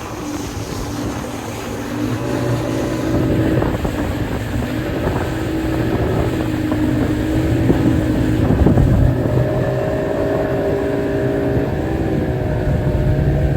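Motorboat engine running under way, a steady drone that rises slightly in pitch near the end, with wind buffeting the microphone.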